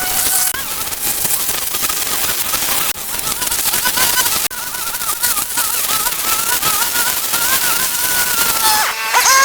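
A machine running with a steady rushing hiss and a wavering whine under it. Near the end the whine dips, then rises into a steady motor tone.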